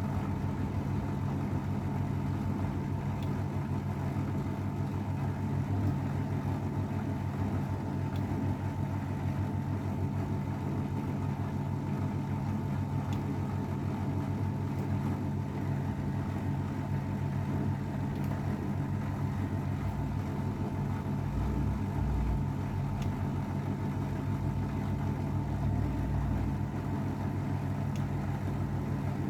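Old AEG Öko-Lavamat 693 front-loading washing machine running with a steady motor drone and hum, the drum turning at a constant speed; a low rumble swells for a few seconds past the middle.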